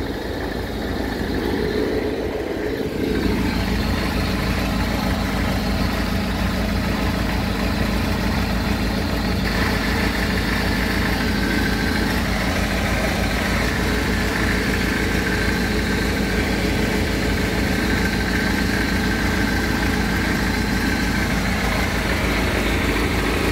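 Car engine idling steadily as it warms up after a fresh head gasket replacement, heard from underneath close to the exhaust pipe. It gets louder and fuller about three seconds in, as the microphone moves under the engine.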